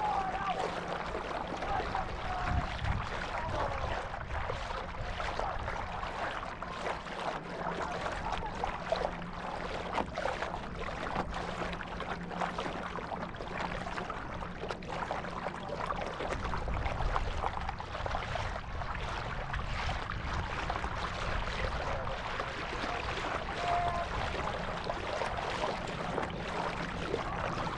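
Water rushing and splashing along a sailing boat's hull, with wind rumbling on the microphone and a faint steady hum through the first half.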